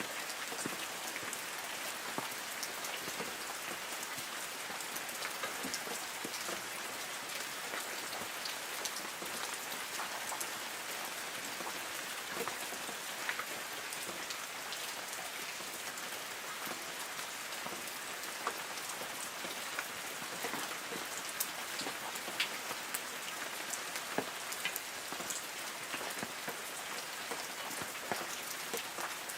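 Light rain falling on forest trees: a steady hiss of rain with many separate drops ticking and pattering on leaves.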